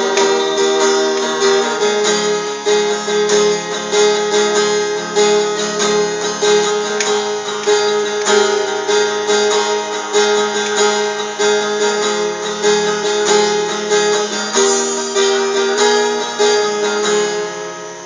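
Acoustic guitar strumming an instrumental passage of a slow ballad in a steady rhythm, dropping away near the end.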